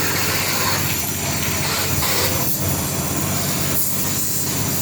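Pressure washer spraying out a bare 1.6-litre Mazda engine block, a steady loud hiss of water jet over the low hum of the washer's pump, flushing honing metal shavings and grease from the block before reassembly.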